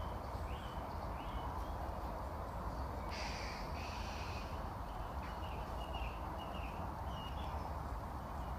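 A series of short, high bird calls over a steady background hiss, with a longer, harsher call about three seconds in.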